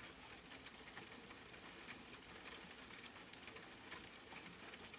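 Faint, steady rain: soft pattering of many fine drops with a light hiss.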